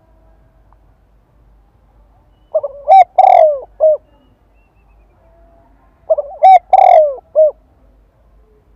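Spotted dove cooing: two calls about three and a half seconds apart, each a quick run of several short coo notes.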